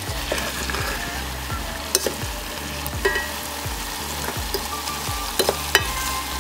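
Zirvak for plov (beef, onion and carrots) sizzling in oil in a kazan while a metal slotted spoon stirs it. Several sharp clinks of the spoon against the pot come in the second half.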